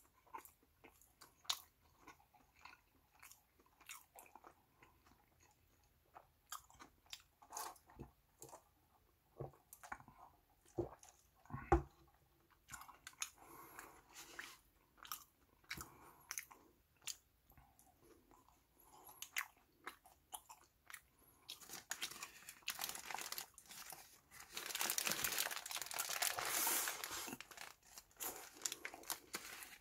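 Close-miked chewing of a hamburger with lettuce and beef patty: wet chewing with many small crunches and clicks. Near the end, a few seconds of louder rustling from the paper burger wrapper being handled.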